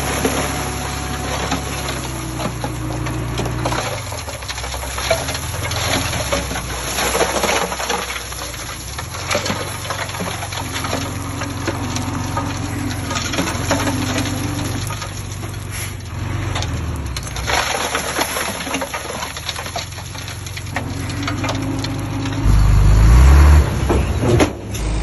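Diesel engine of heavy earthmoving machinery running steadily, with a louder surge of engine noise near the end.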